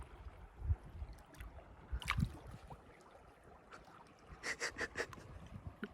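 Faint river water trickling and splashing, with a few short splashes about two seconds in and again near the end, over a low rumble.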